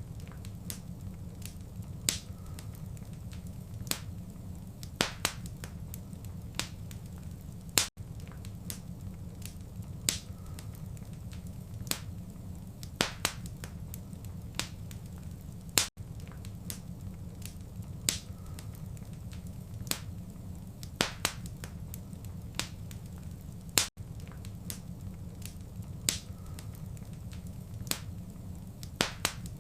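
Wood fire crackling: irregular sharp pops and snaps over a steady low rumble. The same crackle pattern repeats every eight seconds, with a brief dropout at each loop seam.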